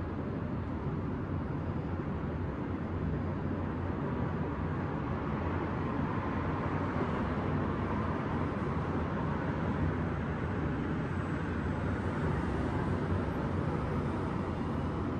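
Steady hum of distant city traffic, swelling a little in the middle as if a vehicle passes below, then easing off.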